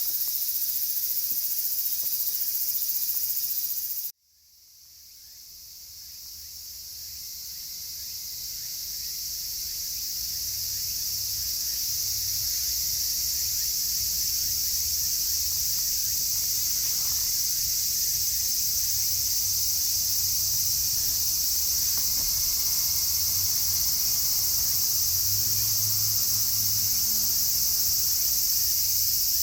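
A dense chorus of cicadas singing steadily at a high pitch. About four seconds in the sound cuts out abruptly, then fades back up over several seconds.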